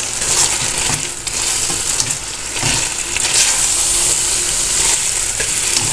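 Grated eggplant and diced potatoes sizzling in hot oil and spices in a metal pot, with a wooden spatula stirring through them: a steady high hiss with the soft irregular strokes of the stirring.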